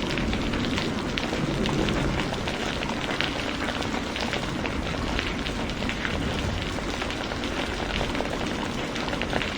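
Heavy rain falling steadily: a dense, even hiss dotted with many sharp drop impacts.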